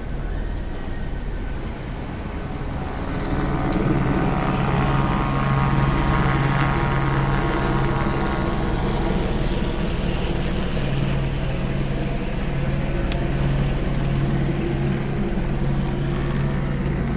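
Police helicopter's rotor and engine drone, steady, growing louder about four seconds in and staying loud.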